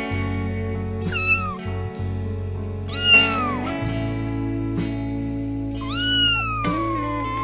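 Domestic cat meowing three times over background music. The calls fall in pitch; the second is the loudest, and the last is long, sliding slowly down.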